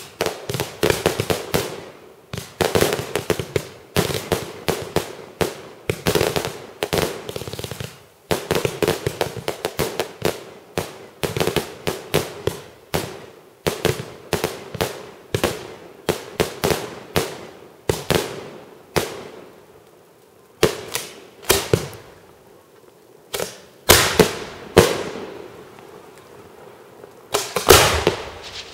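Fireworks display: bursts of rapid crackling repeat about every two seconds, then thin out after about twenty seconds into a few separate louder bangs that echo away.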